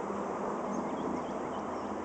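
Steady outdoor background noise with a low, even hum, and a few faint, short, high-pitched chirps of small birds.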